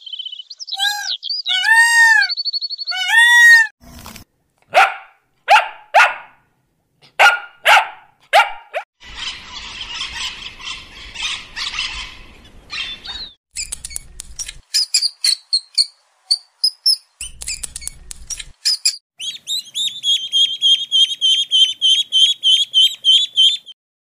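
A run of different animals' calls: repeated meows in the first few seconds, then a string of separate barks, then short chirps and a fast, high trill near the end.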